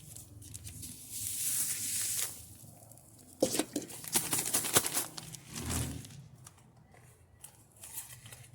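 Food packaging being crinkled and torn open while dough-bait ingredients are handled: a hiss of about a second, then a run of sharp crackles.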